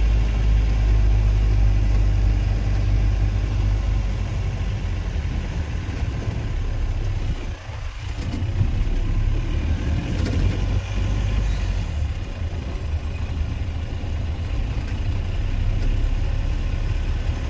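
A car's engine and road noise, heard from inside the vehicle as a steady low rumble with a brief dip about eight seconds in.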